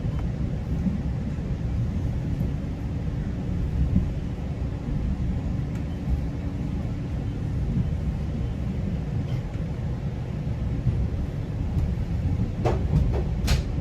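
GO Transit commuter train running along the track: a steady low rumble of wheels and rails, with a few sharp clicks near the end.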